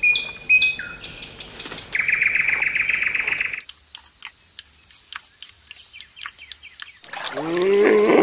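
Bird calls: a few clear whistled notes and chirps, then a fast trill lasting about a second and a half. A quieter stretch of faint ticks and a thin steady high tone follows. Near the end a louder, lower-pitched animal call comes in, bending up and down in pitch.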